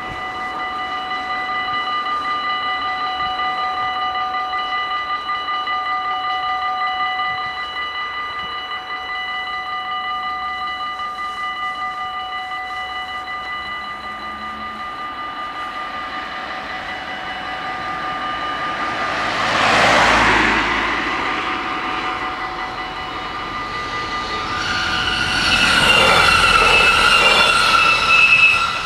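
Electric bells of a Dutch automatic half-barrier level crossing ringing steadily, one of them stopping after about seven seconds. A loud rushing swell comes and goes about twenty seconds in. A Stadler GTW diesel train then passes over the crossing during the last few seconds, loud, with high squealing tones.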